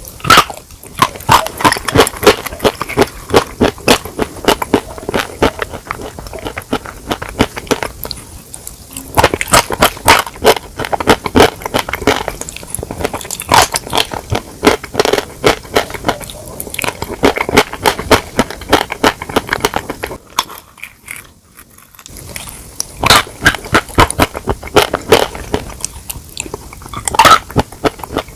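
A person biting and chewing chicken close to the microphone: a dense, irregular stream of clicks and crackles, with a short pause about two-thirds of the way through.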